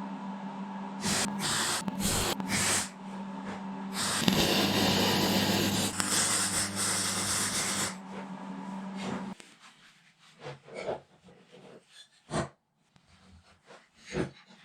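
A machine running with a steady hum, and a loud hissing rush over it for about four seconds in the middle; the machine stops about nine seconds in, leaving a few faint knocks.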